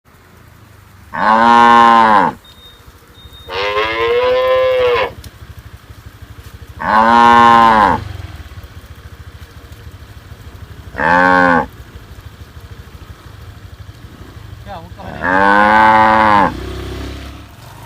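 Cattle mooing: five separate drawn-out moos a few seconds apart, the fourth one short.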